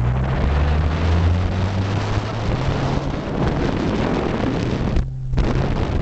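Car engine running under load during a drift on a wet road, beneath a heavy rush of wind and tyre spray noise. The rush cuts out briefly about five seconds in while the engine hum carries on.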